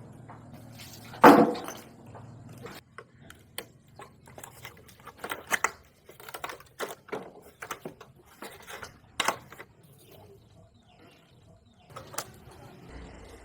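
Hand tools and motorcycle parts being handled in restoration work: a loud knock about a second in, then an irregular run of small clicks and knocks.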